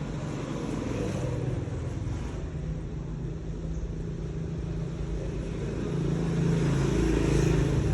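A motor running with a steady low rumble, growing louder about six seconds in.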